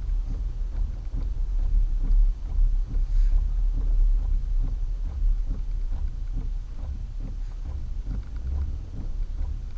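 Low rumble of a car's engine and tyres heard from inside the cabin as it drives off, with scattered light knocks and ticks throughout.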